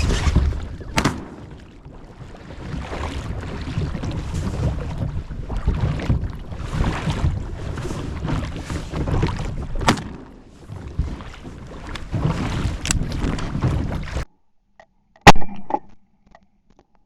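Strong wind buffeting the microphone over choppy water around a layout boat, with a few sharp knocks. The sound then cuts away to near silence, broken by a single very loud shotgun blast about fifteen seconds in.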